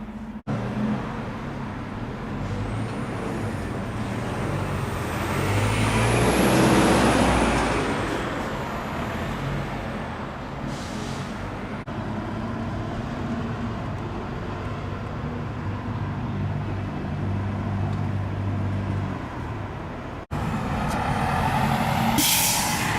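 City street traffic: a large vehicle's engine rumbling, with one passing loudly about seven seconds in and a short hiss near the end.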